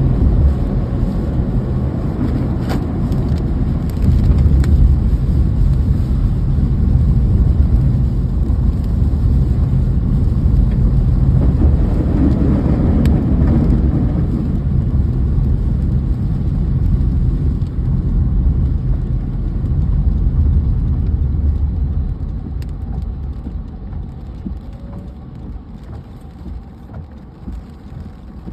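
Rain with a strong, deep rumble under it that eases off about three-quarters of the way through.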